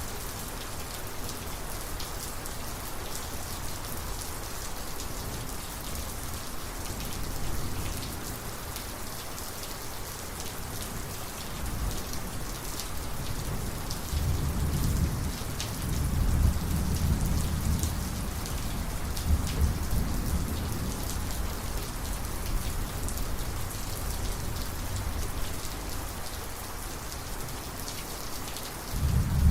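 Heavy thunderstorm rain falling steadily, with a low rumble of thunder rolling in about halfway through and lasting several seconds, and another rumble starting near the end.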